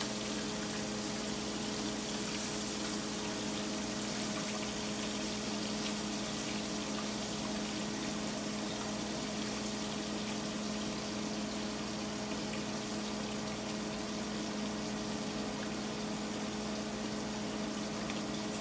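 Fish fillets frying in hot oil in a skillet, a steady sizzle, over the constant hum of a kitchen range-hood fan.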